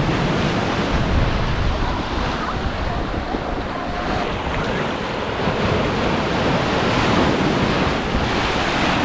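Surf washing and breaking on a beach, a steady loud rush of waves, with wind buffeting the microphone.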